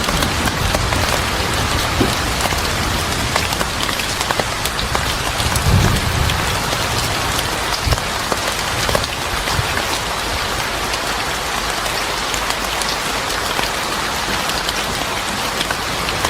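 Steady rain falling on a surface: a dense, even hiss dotted with many small drop taps, with a brief low rumble about six seconds in.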